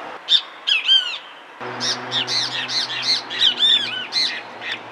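Great kiskadee calling: loud, harsh arched notes, first a couple of separate calls and then, from about a second and a half in, a quick run of repeated calls. This is the call the bird is named for, 'bien-te-veo'.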